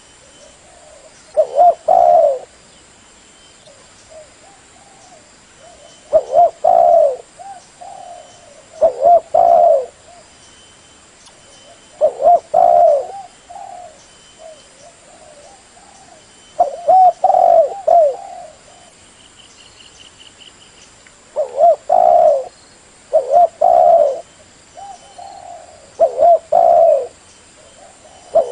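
Spotted dove (tekukur) cooing: about eight loud phrases of a few coos each, repeated every two to five seconds, with quieter coos in between.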